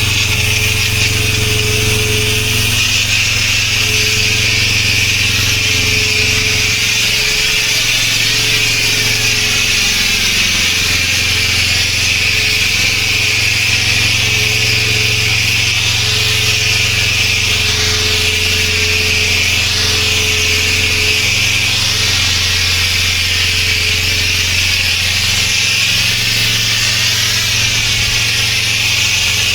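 Pressure washer jet spraying hard onto a surface, a dense steady hiss over the machine's constant low hum.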